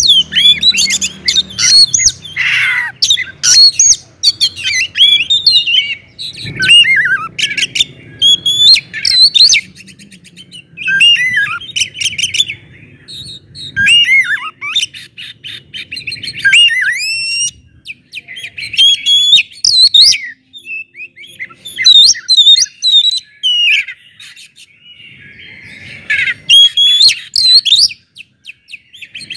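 Oriental magpie-robin (kacer) singing loudly in full song: quick phrases of clear whistles and sweeping, looping notes, broken by short pauses.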